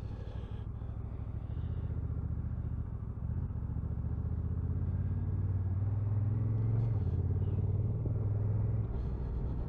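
Honda NT1100 parallel-twin motorcycle engine pulling steadily on the road, its low note slowly rising, with a couple of small dips in pitch along the way.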